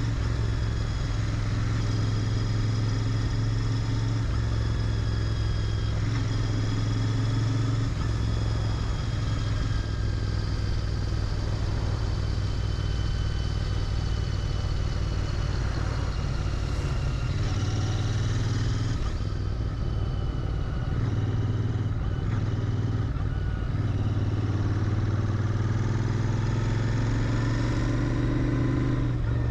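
Royal Enfield Interceptor 650's parallel-twin engine running through its stock exhaust while riding at a steady pace. The engine note dips and picks up again a few times past the middle as the throttle eases off and opens.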